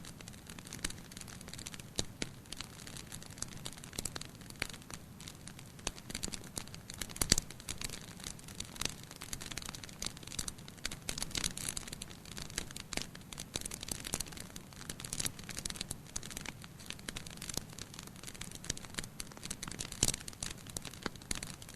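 Fire in a fireplace crackling steadily, with irregular sharp pops and snaps over a low steady hiss. The loudest snaps come about seven seconds in and again near twenty seconds.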